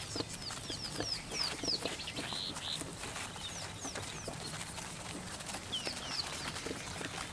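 Wild birds calling: many short, high chirps that sweep downward, coming in quick runs, with a brief harsher, hissy call a little over two seconds in. Soft scattered taps sound underneath.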